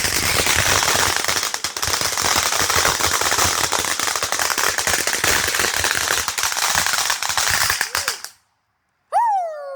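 Consumer firework going off in a rapid, continuous run of loud crackling pops, cutting off suddenly about eight seconds in.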